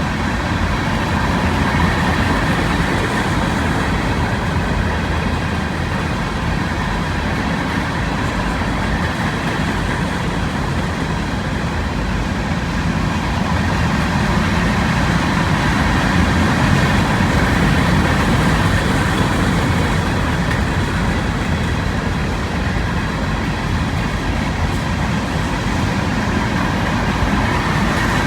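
Loaded freight cars of a rock train rolling past, a steady run of wheel-on-rail noise with faint high ringing tones from the wheels.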